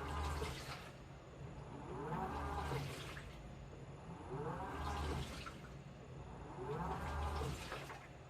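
Washing machine in its wash cycle: the motor whirs up in a rising whine and the load and water slosh and splash, repeating about every two and a half seconds, four times.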